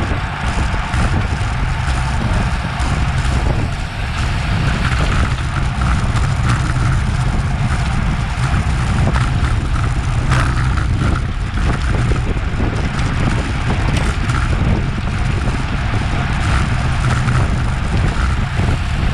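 Steady wind rush and low buffeting on an action camera's microphone carried on a bicycle riding at race speed, with tyre and road noise underneath.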